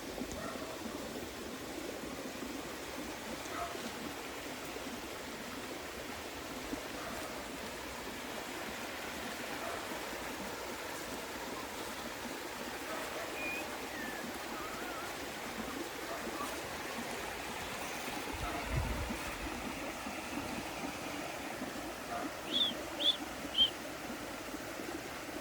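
Steady rushing of running water, with a brief low thump past the middle and three short high chirps close together near the end.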